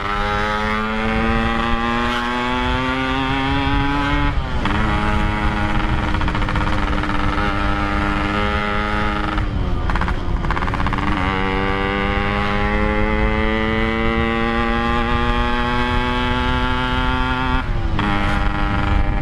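Yamaha RX-King 135cc two-stroke single running through a standard-pattern exhaust and accelerating through the gears. The pitch climbs steadily in each gear, with upshifts about four, ten and eighteen seconds in. The engine is freshly re-tuned and pulls with quick response.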